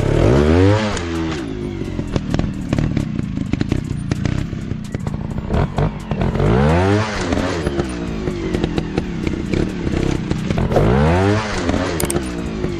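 Single-cylinder off-road motorcycle engine revving up and dropping back three times, about half a second, seven seconds and eleven seconds in, over a running engine with frequent rattling clatter.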